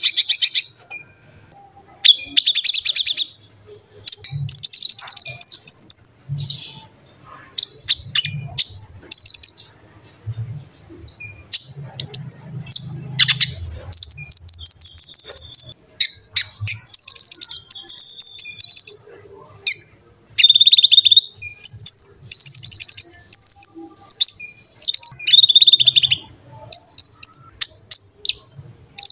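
Konin (kolibri ninja) sunbird singing: bursts of rapid high chirps and buzzy trills, with short quick upward-sweeping notes repeated many times, broken by brief pauses.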